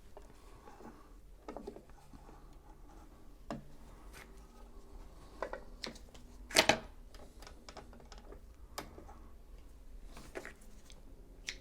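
Scattered clicks and light knocks from a sewing machine being handled while it is rethreaded, about half a dozen separate taps with the sharpest a little past the middle.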